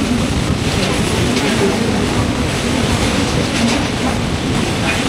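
Broad-gauge passenger train running at speed, heard at an open coach window: a steady, loud rush and rumble of wheels on rail and air.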